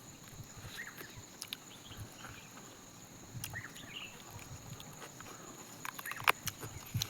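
Faint outdoor ambience: short chirping calls every second or so over a steady high-pitched whine, with scattered small clicks and a sharper click near the end.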